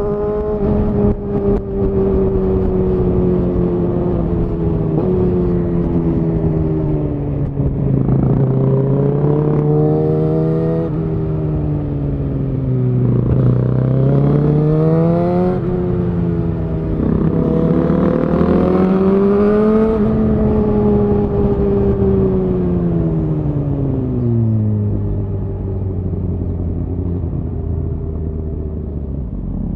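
Suzuki GSX-R1000R's inline-four through a Yoshimura R-11 SQ exhaust under way, its note rising and falling with throttle and gear changes, climbing twice near the middle, then winding down to a low steady note near the end, with wind rushing past.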